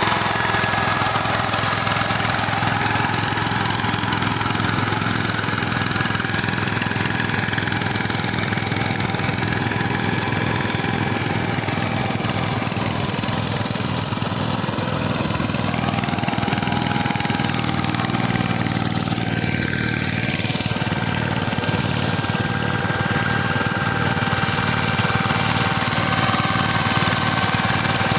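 A tractor's diesel engine runs steadily with an even, rapid firing beat. Its pitch wavers briefly about twenty seconds in.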